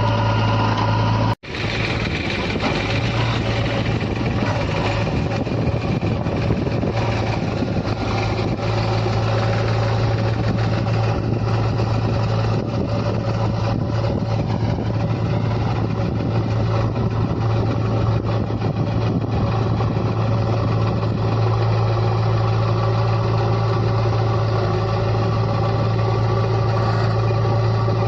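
A heavy diesel engine of a tractor or JCB backhoe running steadily at a constant speed, with a momentary break in the sound about a second in.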